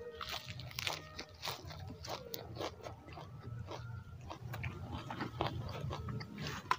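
People chewing and crunching raw leafy greens and fried chicken eaten by hand, a stream of irregular crisp crunches and wet mouth clicks.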